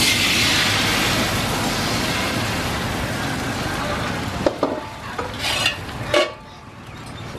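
Rice-flour mixture sizzling in a hot aluminium wok as it is stirred with a metal spatula. The sizzle starts suddenly and fades after about four seconds, followed by a few metal clanks as the wok and its lid are handled.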